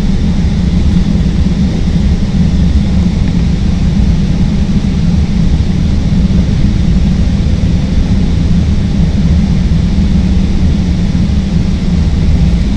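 CTA Green Line elevated train running along the track: a steady, loud rumble of the motors and wheels on the rails.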